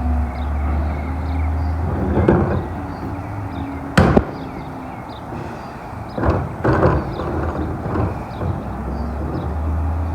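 Amrep-bodied garbage truck's diesel engine running steadily, with one sharp loud bang about four seconds in and a few duller thumps around it.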